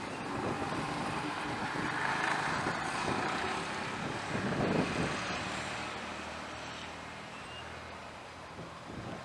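Jet airliner engine noise, swelling over the first few seconds and then slowly fading as the aircraft passes.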